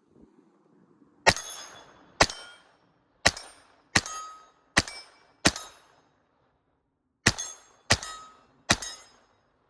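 Browning Buck Mark .22 LR pistol fired nine times, a sharp crack about every second with a pause of nearly two seconds after the sixth shot. Each crack is followed by a short ringing tail.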